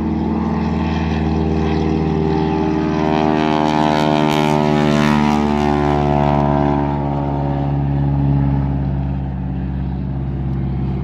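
Propeller seaplane's engine droning as it flies past, loudest around the middle and easing slightly near the end.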